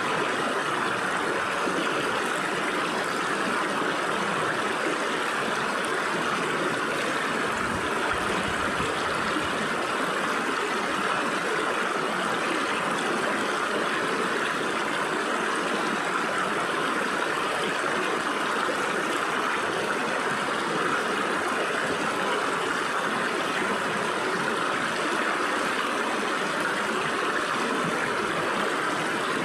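A rocky stream flowing steadily, water rushing and babbling through the gaps between stones.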